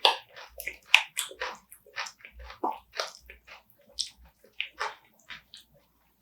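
Close-miked eating of spicy marinated raw crab: irregular wet chewing smacks and small crunches, several a second.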